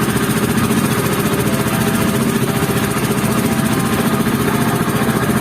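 Boat engine running steadily at an even pitch and speed, with a fast, regular putter.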